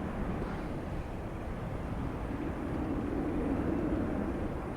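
Jet airliner engine noise, swelling slightly partway through, under a choppy low rumble of wind on the microphone.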